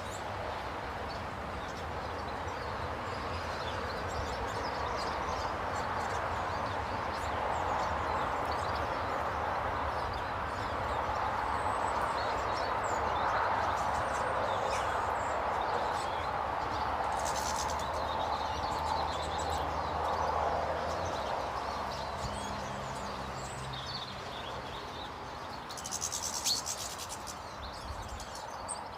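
Small birds chirping now and then over a steady background rush, with a quick run of chirps near the end.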